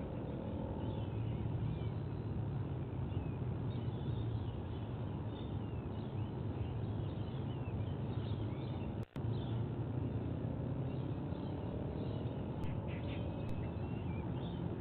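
Many short, high bird chirps and cheeps over a steady low rumble, with a brief cut-out of the sound about nine seconds in.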